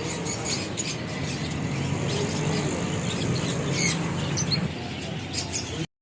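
Many small caged birds chirping and squawking together in a dense, overlapping chatter of short high calls, over a low steady hum. The sound cuts off abruptly near the end.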